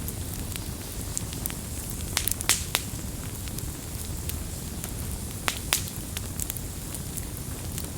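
Wood campfire burning, with irregular sharp crackles and pops over a steady low rumble of the flames; a cluster of louder pops comes about two and a half seconds in and another near five and a half seconds.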